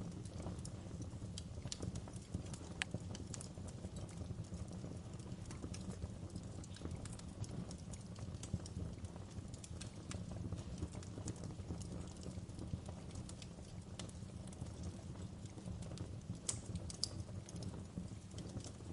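Wood fire crackling in a fireplace: irregular sharp pops and snaps of the burning logs over a steady low rumble of the flames, with a couple of louder pops near the end.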